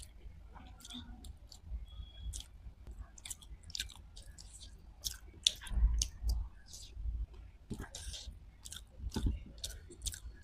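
Chewing and wet mouth smacks while eating dahi bhalla, lentil dumplings soaked in yogurt: a steady stream of short clicks and squelches, with a few louder bites around the middle.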